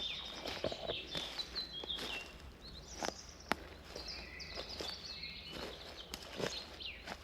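Several songbirds singing short trilled and stepped phrases, over footsteps crunching along a forest path.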